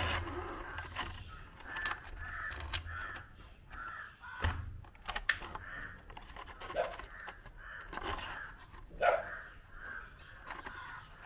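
A bird calling repeatedly, in two runs of short, evenly spaced calls, with a few sharp clicks of handling in between.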